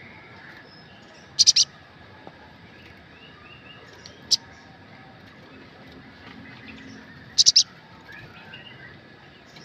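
Olive-backed sunbird giving sharp, high chip calls: a quick burst of three about a second and a half in, a single chip about four seconds in, and another burst of three near the end, over faint background chirping.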